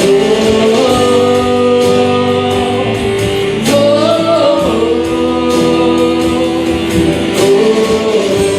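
Live worship band playing held chords with guitar and singing, at the close of a praise song; the chords change twice.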